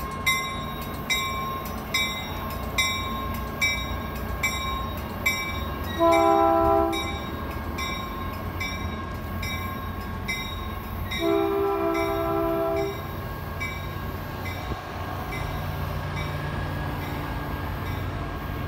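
Caltrain diesel-hauled commuter train at the platform as it pulls out: a bell dings about once a second for the first half, a multi-chime air horn sounds twice, a short blast then a longer one, over a steady low locomotive rumble that swells near the end as the engine throttles up.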